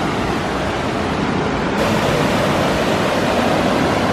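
Waterfall and rushing gorge stream: a steady wash of falling water that swells over the first two seconds and brightens at about two seconds in, then holds level.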